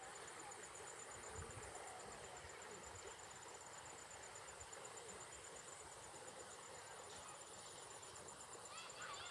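Insects trilling steadily in a faint, high, rapidly pulsed chirring over an even outdoor background hiss, with a few short chirps near the end.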